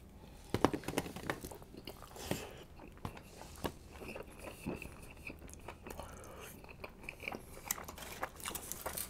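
Close-miked mouth sounds of a person biting and chewing a tortilla chip and burrito: a run of sharp crunches soon after the bite, then quieter chewing with scattered crunches and smacks.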